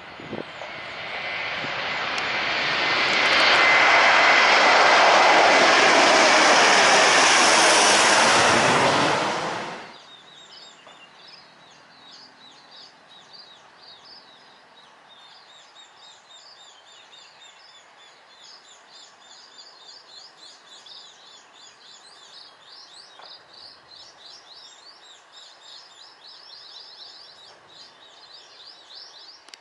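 Jet airliner engines, loud, swelling over the first few seconds and holding, then cutting off abruptly about ten seconds in. Birds chirping faintly follow.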